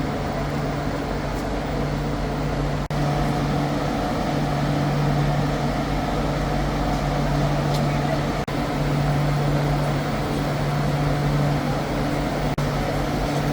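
Passenger train with a steady mechanical hum carrying a low, even drone and a fainter higher tone. It cuts out for an instant three times, near 3, 8.5 and 12.5 seconds.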